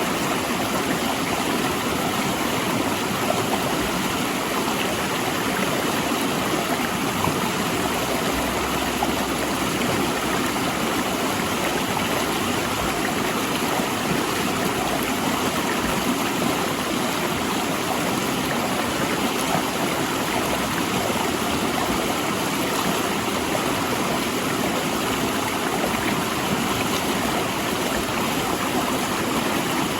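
River water rushing steadily over and between large rocks.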